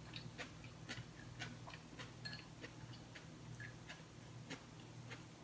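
A person chewing food with the mouth closed, close to the microphone: soft, wet mouth clicks about twice a second over a steady low hum.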